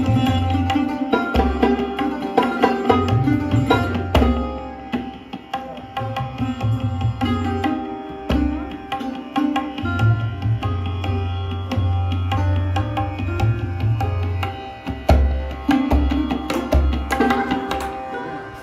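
Sarod played with tabla accompaniment: quick plucked metal-string notes over tabla strokes with a deep, booming bass drum. The playing thins out and gets quieter near the end.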